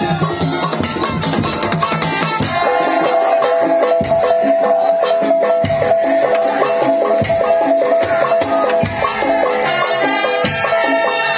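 Madurese tong-tong ensemble playing: fast, dense drum and percussion rhythm, with a held melody line coming in over it about two and a half seconds in.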